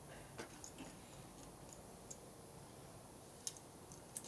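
A few light clicks and taps of hand tools and parts being handled, scattered and faint, with a small cluster near the end.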